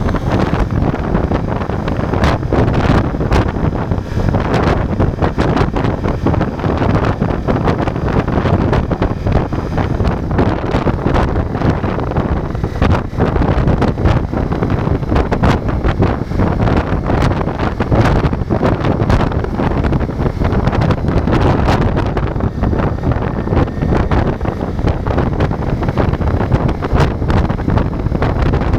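Wind buffeting an action camera's microphone while riding a Ducati Multistrada V4 motorcycle, with the bike's engine running beneath the wind noise.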